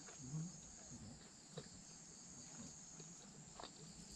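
Steady high-pitched insect chorus, like crickets, with a few faint clicks.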